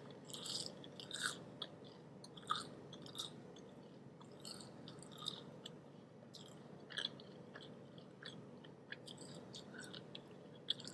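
A person chewing food close to the microphone: faint, irregular crunchy bites and small mouth clicks.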